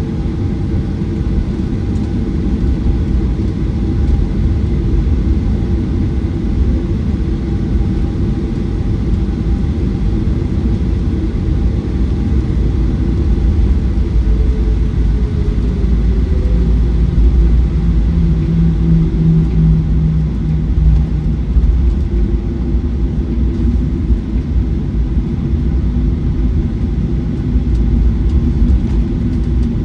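Cabin noise inside a Boeing 737-900ER: the low rumble of the airliner with its CFM56-7B turbofan engines running. A few engine tones sit above the rumble, and some of them slide a little lower in pitch about halfway through.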